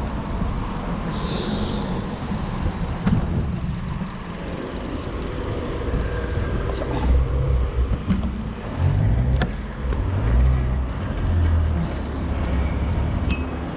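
Road traffic noise with wind rumbling on the microphone, in uneven low swells.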